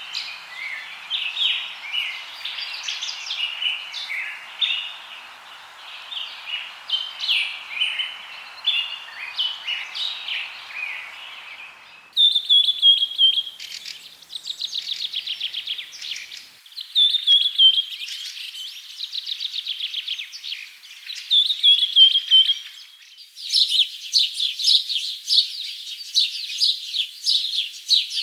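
Several birds chirping and singing, with quick repeated trills. The birdsong changes abruptly about twelve seconds in, when a low hiss beneath it drops out, and again a little over twenty seconds in, when denser, higher chirping takes over.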